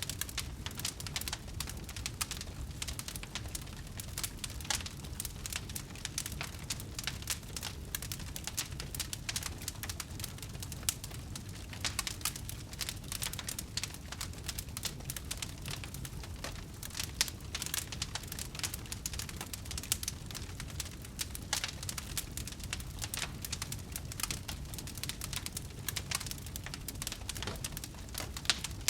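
Wood fire crackling steadily: a low rumble of burning with a dense scatter of sharp pops and snaps, a few louder ones standing out.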